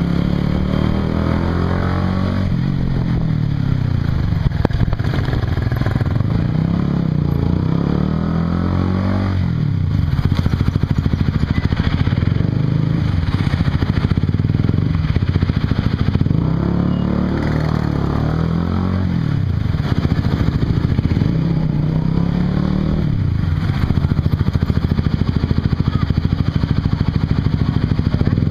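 Single-cylinder engine of a Honda CBR150R FI running through an aftermarket Yoshimura exhaust, heard while the bike is ridden. Its pitch climbs and falls again and again, with sharp drops about ten and twenty seconds in, as it accelerates through the gears.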